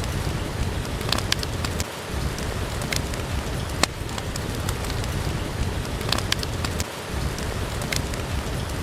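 Steady rain with a low rumble, dotted with scattered sharp crackles and pops.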